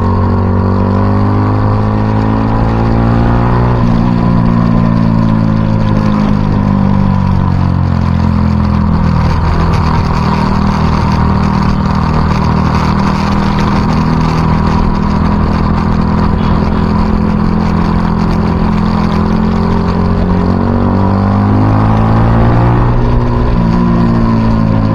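Motorcycle engine running under way. Its pitch climbs and steps down about four seconds in as it shifts up, sinks again as it slows, holds steady for a long stretch, then climbs once more near the end.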